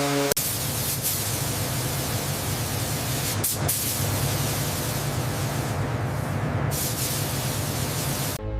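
Steady loud hissing rush of noise that cuts in abruptly a moment in, breaks off briefly about three and a half seconds in, and stops just before the end, with a low steady hum underneath.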